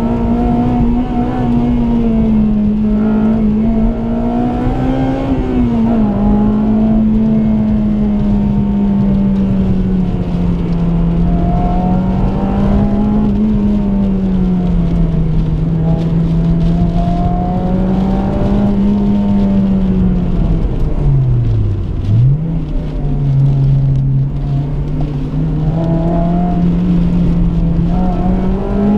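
Honda Civic FD2 Type R's 2.0-litre i-VTEC four-cylinder engine heard from inside the cabin, running hard at high revs. Its pitch rises and falls with throttle and gear changes, with a quick sharp drop and recovery about three-quarters of the way through. Steady tyre and road noise lies underneath.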